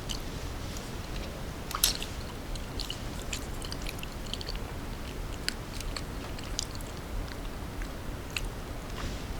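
Close-miked chewing and biting of food, with scattered small crisp clicks and one sharper crunch about two seconds in.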